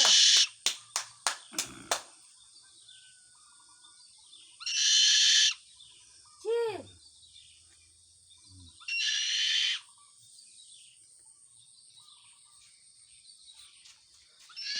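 Owl giving harsh, hissing screech calls, each under a second, three of them about every four to five seconds. A quick run of sharp clicks follows the first, and a short pitched call that rises and falls comes in between.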